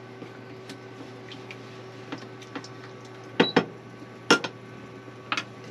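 A few sharp clinks and knocks of a utensil against a cooking pot, two close together mid-way and one about a second later, over a steady low hum.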